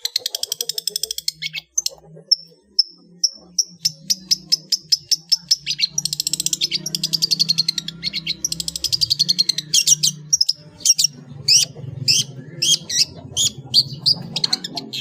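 Long-tailed shrike singing a fast, varied song of mimicked calls: rapid chattering trills and runs of notes, a brief series of evenly spaced clear notes a couple of seconds in, and sharp separate notes over the last few seconds. A faint low hum runs underneath.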